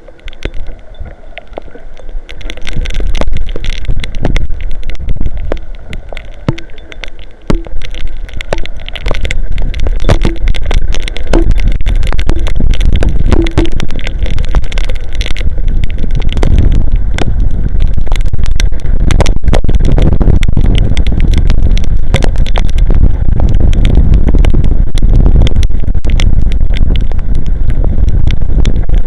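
Strong storm wind buffeting an outdoor camera microphone, with heavy rain hitting it in dense sharp clicks. The rumble builds about two seconds in and stays loud.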